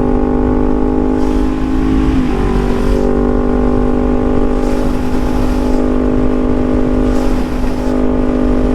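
Suzuki GSX-R750 sport bike's inline-four engine running at a steady speed under way, over constant wind and road noise. The pitch dips briefly about two seconds in.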